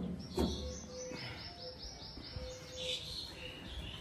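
A bird chirping in a quick, even run of high notes, about five a second, then a few looser chirps. A single short knock comes near the start.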